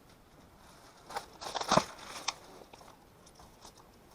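A short run of crackles, clicks and crunches from objects being handled, loudest about halfway through.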